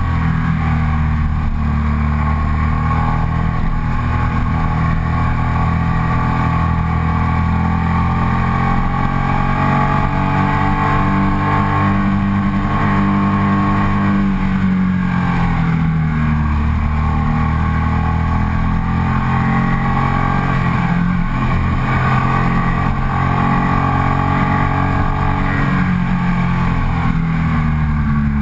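Ducati Sportclassic Sport 1000's air-cooled L-twin engine pulling uphill, heard from onboard. Its pitch climbs slowly, drops sharply about 15 seconds in and again a little after 20 seconds, then climbs again.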